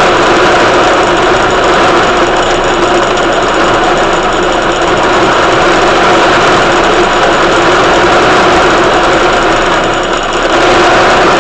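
Small engine running steadily at a constant speed, with a brief dip in loudness about ten seconds in.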